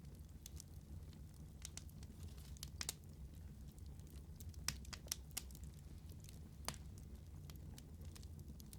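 Wood fire crackling: scattered sharp pops and snaps, a few louder ones a little past the middle, over a low steady rumble of the burning.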